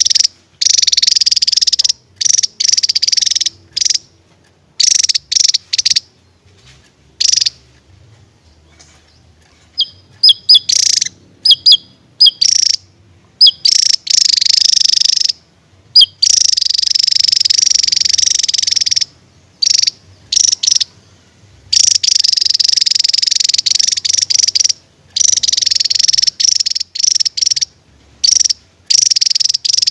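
Javan tesia singing loudly in long, rapid, buzzy chattering bursts of a second to three seconds each, separated by short pauses, with a run of short sharp chirps in the middle.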